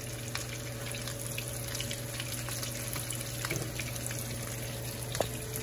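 Breaded fish bites frying in shallow hot oil in a nonstick pan: a steady crackling sizzle, with a few light clicks of a fork against the pan as pieces are turned. A steady low hum runs underneath.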